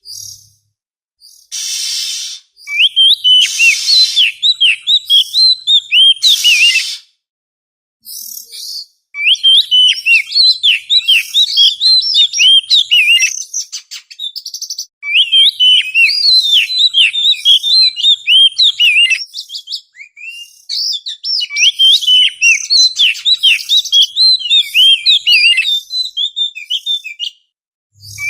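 Oriental magpie-robin (kacer) singing, the kind of song used as a lure call. It runs in fast runs of quick, varied whistled chirps lasting several seconds each, with short pauses between them. The first few seconds hold harsh rasping notes mixed with the chirps.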